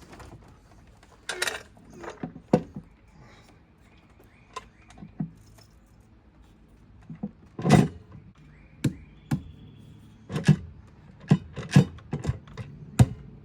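Irregular clinks and knocks of hand tools and metal parts being handled while a lid is fitted onto the engine: about a dozen sharp taps, sparse at first and coming faster in the second half.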